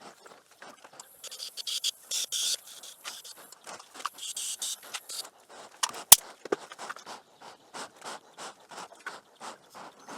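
Powder coat gun spraying white powder in two short hissing bursts of air. A sharp click about six seconds in, with light scraping and rustling throughout.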